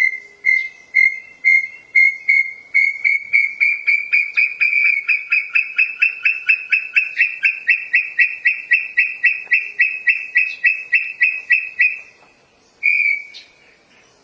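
A bird giving a long series of clear whistled notes that gradually speed up from about two to about four a second and rise slightly in pitch. The series stops abruptly, and one short note follows about a second later.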